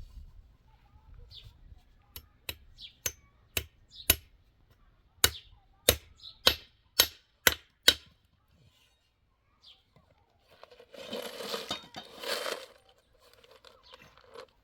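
A run of about eleven sharp knocks, irregularly spaced over some six seconds, followed a few seconds later by a short burst of noise lasting under two seconds.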